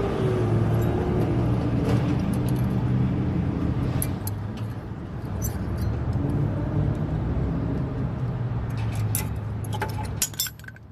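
Metal brake parts clinking as brake pads are fitted back into the caliper bracket, with a quick clatter of metal near the end like a part slipping from the hand, over a steady low mechanical hum.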